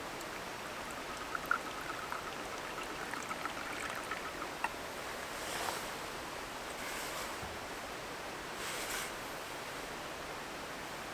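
Steady rushing of a stream. A few light clicks come in the first few seconds, and short rustles follow later.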